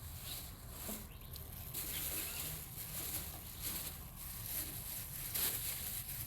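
Outdoor ambience with faint bird calls and scattered soft rustles.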